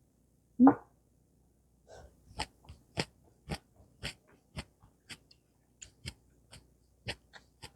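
Close-miked crunchy chewing, with sharp crunches about twice a second starting about two seconds in. Just before that comes one short loud sound.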